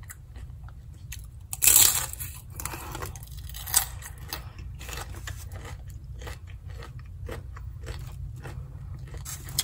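Close-up crunching and chewing of a deep-fried shrimp roll with a crispy spring-roll wrapper. A loud crisp bite comes about two seconds in, followed by a run of crackly chewing crunches.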